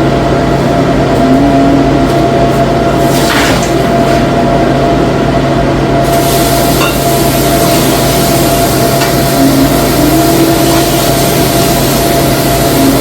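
Steady loud hissing noise with a constant low hum and a thin steady whine underneath.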